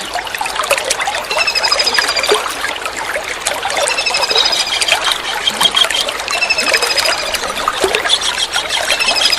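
Kingfisher (tengkek udang) calls as short, high, rapid trills, four of them about two and a half seconds apart, over a steady trickle of running water.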